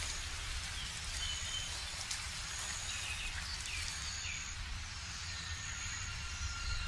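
Subtropical forest ambience: scattered short bird chirps and whistles, some gliding in pitch, over a steady hiss and a low rumble. Near the end, steady held tones come in.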